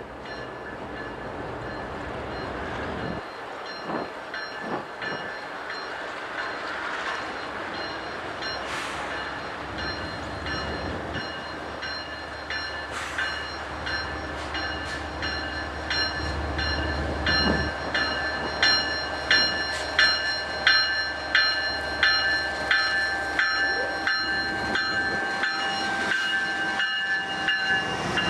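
Freight train led by two GE ES44AC diesel locomotives approaching and passing, growing louder. Steady high-pitched wheel squeal rings throughout, and rhythmic clacking of wheels over rail joints becomes prominent in the second half.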